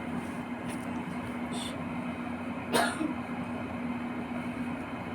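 Steady low hum of room noise, with one brief sharp sound about three seconds in and a short faint hiss a little before it.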